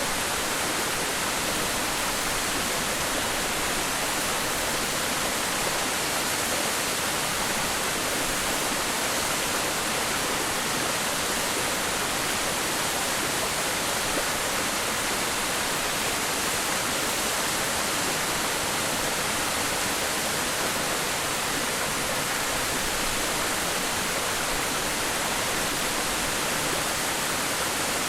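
Ichijo-daki waterfall: water pouring and splashing in a steady, unbroken rush, with most of its energy in the hiss of the upper range.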